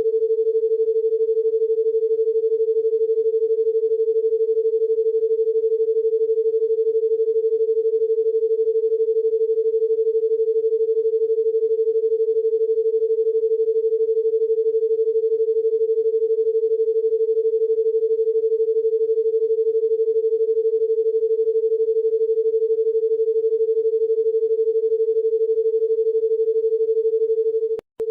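A single steady electronic tone, pitched somewhat below 500 Hz, held without change; it breaks off for a moment near the end.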